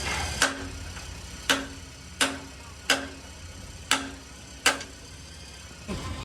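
Six hammer blows on metal at an uneven, roughly one-a-second pace, each with a short ringing tone, during truck body repair.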